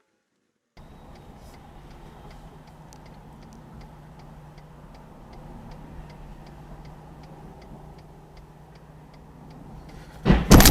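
Car interior hum with a steady ticking, about two or three ticks a second. Near the end comes a sudden loud crash: a collision, with rattling and breaking after it.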